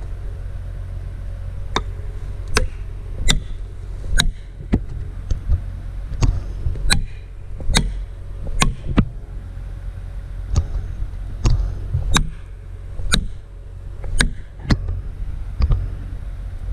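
Repeated sharp strikes on a felling wedge being driven into a tree cut, roughly one a second at an uneven pace, over a steady low rumble.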